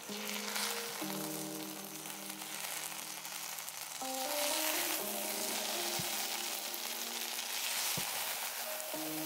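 Food sizzling as it fries in a pan, a steady dense hiss, under background music whose notes change about once a second.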